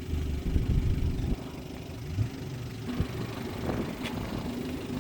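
Car engines running, mostly at idle, with a couple of short knocks about three and four seconds in.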